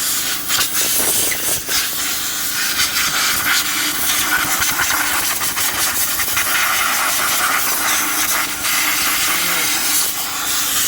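Compressed air hissing steadily from an air blow gun, blowing water out of an engine to dry it.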